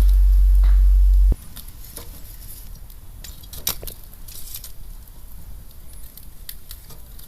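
Wood bonfire crackling with scattered sharp pops and ticks. A loud, steady low rumble opens it and cuts off suddenly just over a second in.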